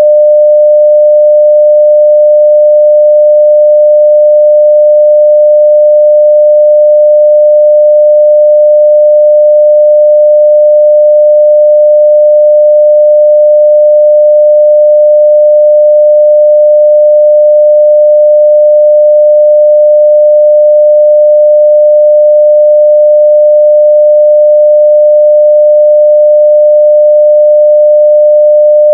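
A 600 Hz sine-wave audio test tone at full scale (0 dB): one steady pure pitch held without any change.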